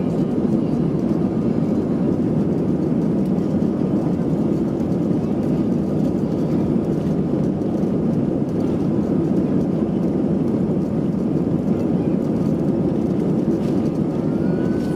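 Steady engine and airflow noise inside the cabin of an Airbus A320: a constant low rush with a faint high whine above it.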